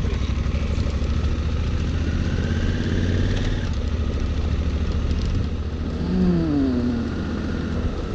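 Honda Africa Twin's parallel-twin engine running steadily with a low, even pulse. A short falling tone sounds about six seconds in.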